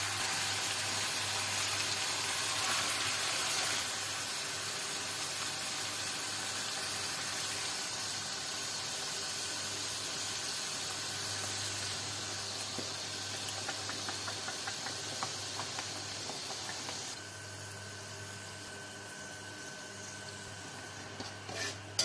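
Chicken, fish cake and fish balls sizzling in hot oil and chili paste in a wok, a steady hiss that drops in loudness in two steps. A steady low hum runs underneath.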